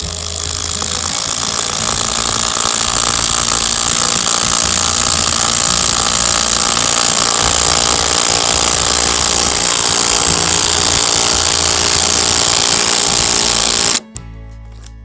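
Impact gun hammering a long lag bolt into timber, its threads coated with beeswax to ease it in. A continuous rapid rattle that runs about fourteen seconds and cuts off suddenly.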